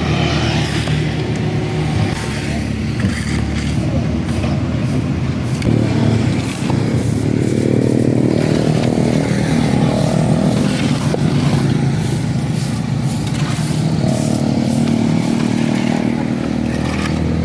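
A small engine running steadily, its revs rising and falling once about seven to nine seconds in, with scattered clicks and scrapes over it.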